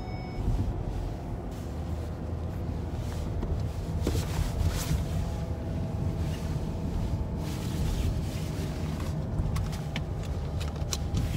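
Car driving slowly on a snow-covered road, heard from inside the cabin: a steady low rumble of engine and tyres, with a few short knocks here and there.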